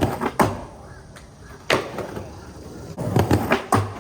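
Skateboard rolling on concrete, with several sharp clacks as the wheels and board come back down during manual attempts.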